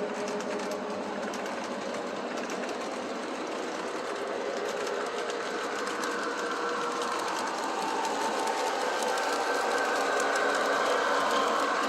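Model electric train running along the track: a steady small-motor whine with the clatter of wheels on rails. The whine gets higher and a little louder in the second half.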